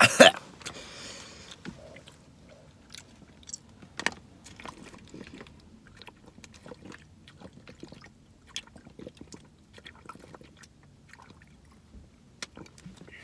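Close-up mouth sounds of chewing and swallowing, with scattered small clicks and taps, after one loud sudden noise right at the start.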